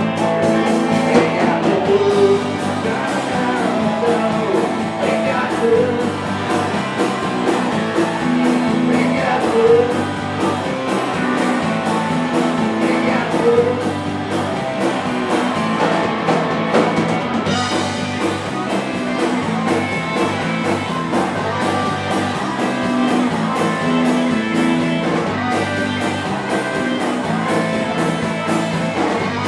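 Live rock-blues band playing an instrumental break, with lead guitar bending notes over the band and a steady beat.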